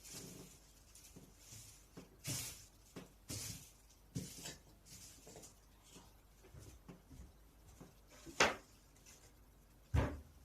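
Hands handling the plastic parts of an air conditioner: scattered rustles, light clicks and knocks, with a sharp knock about eight seconds in and a duller thud near the end.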